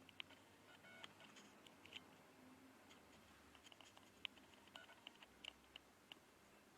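Java sparrow making faint, scattered clicks and short soft high chirps, several a second at times, over a quiet room.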